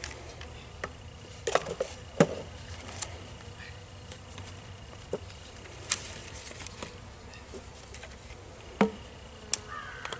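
Honeybees buzzing steadily around a hive, with a handful of sharp clicks and knocks scattered through.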